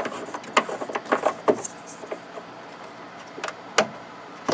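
A quick run of small clicks and knocks over the first second and a half, then a few separate sharp clicks near the end: the evaporator drain plug of a portable air conditioner being worked out of its drain port and handled.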